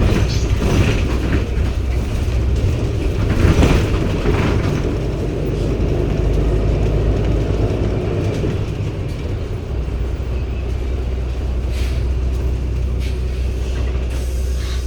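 Cabin sound of a 2016 NEW BS090 city bus under way, its Cummins ISB 280 PS six-cylinder diesel running with a steady low drone and some rattling in the first few seconds. The engine note eases off around eight seconds in and comes back strongly at about ten seconds.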